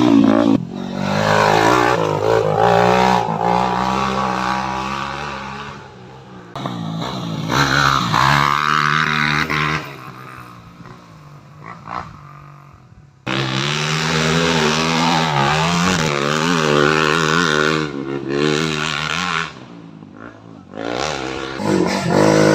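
Dirt bike engines revving hard as bikes ride past on the rally track, pitch rising and falling with the throttle. The sound comes in several loud stretches, with a few sudden jumps in level and quieter spells in between.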